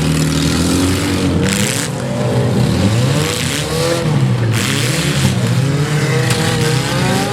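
Several demolition derby car engines revving up and down at once, with two short bursts of noise about one and a half and four seconds in.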